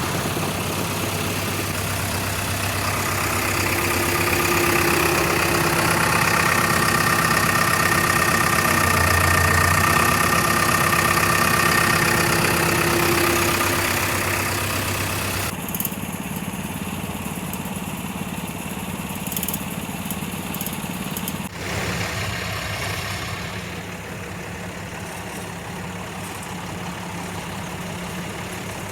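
Truck engine idling steadily, with a higher steady whine over it for about ten seconds in the first half. The sound changes abruptly twice in the second half.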